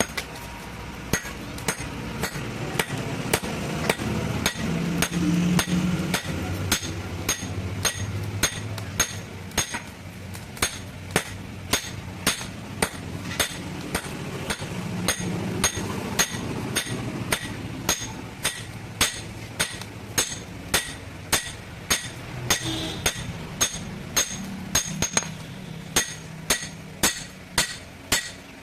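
Blacksmith's hammer striking metal in a steady rhythm of about two blows a second, each blow leaving a short metallic ring. A steady low hum runs underneath.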